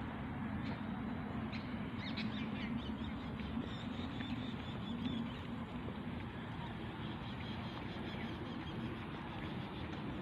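Birds calling over a steady background noise, with a cluster of short calls about two to three seconds in.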